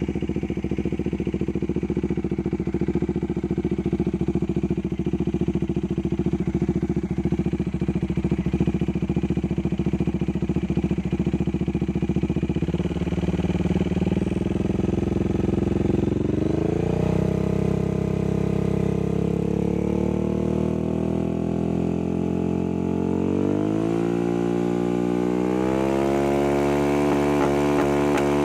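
Bajaj Dominar 400's single-cylinder engine through an SC Project open exhaust pipe, loud, idling with an even pulsing beat. From about halfway the revs climb in steps, and they are held higher near the end.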